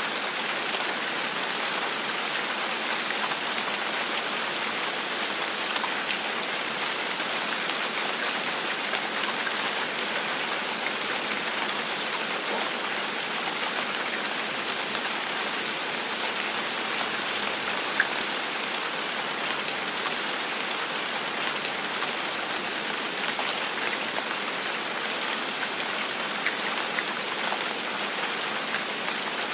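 Steady gentle rain falling on a surface, an even hiss with scattered individual drop ticks, one sharper drop about two-thirds of the way through.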